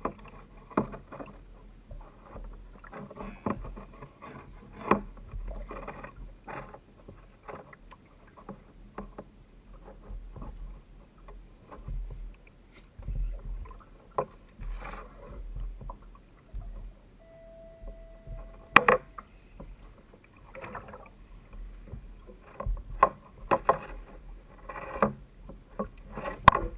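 Kayak on open water: water slapping against the hull, with irregular knocks and bumps of gear on the boat. A brief steady whine is followed by one sharp, loud knock about two-thirds of the way through.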